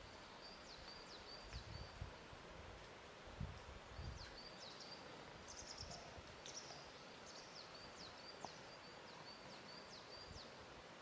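Faint lakeshore ambience: a small bird calls over and over in short, high chirps and quick falling notes, over a soft steady hiss. In the first few seconds a few soft low thumps come from water lapping at the shore.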